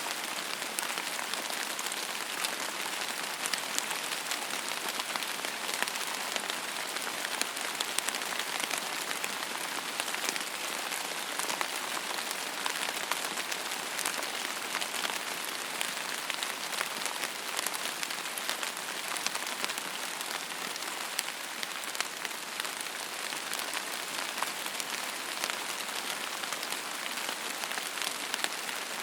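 Steady rain falling on a surface, an even hiss with many fine, distinct drop ticks and no thunder.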